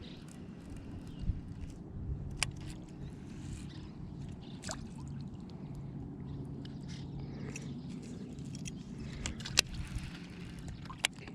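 Old Town Sportsman PDL 106 kayak's pedal drive running with a steady low hum, with a few sharp clicks and knocks on the hull or gear, one louder than the rest near the end.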